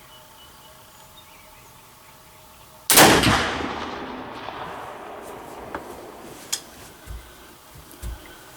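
Flintlock muzzleloading rifle (Dixie Arms Tennessee poor boy) fired once about three seconds in with a 100-grain charge of Swiss black powder: a single loud report whose echo dies away over a couple of seconds. A few faint knocks follow.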